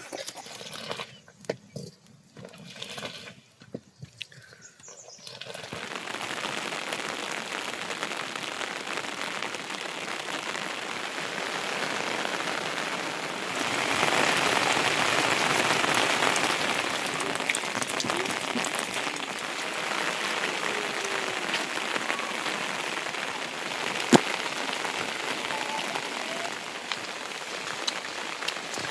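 Steady monsoon rain pouring, rising in about five seconds in and growing heavier for a few seconds in the middle. A single sharp click sounds later on.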